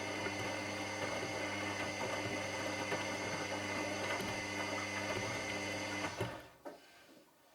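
Washing machine running with a steady hum and water sloshing, then stopping abruptly about six seconds in with a couple of clicks, leaving only faint hiss.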